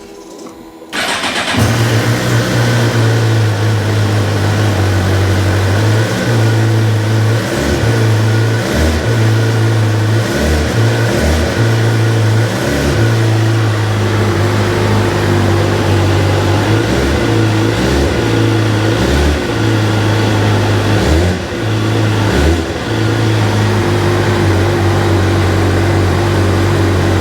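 A 2010 Suzuki GSX-R 750's inline-four engine is started through its standard exhaust: the starter turns briefly and the engine catches about a second and a half in. It then runs steadily, its note dipping and coming back repeatedly through the middle.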